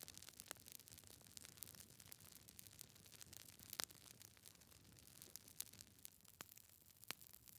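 Wood fire crackling faintly: a soft hiss with scattered sharp pops, the loudest about four seconds in.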